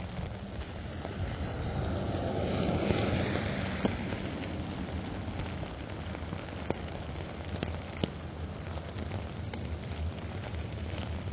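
Steady rain pattering on an umbrella, with scattered sharp drop hits. A car passes on the wet road about two to four seconds in, its tyre hiss swelling and fading.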